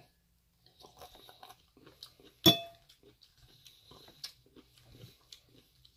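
Close-up mouth sounds of chewing salad, soft and irregular. A sharp clink of a metal fork against the ceramic bowl about two and a half seconds in is the loudest sound, with a smaller click later.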